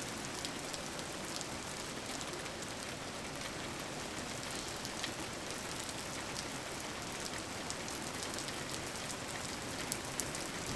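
Steady rain falling, with scattered light drop ticks.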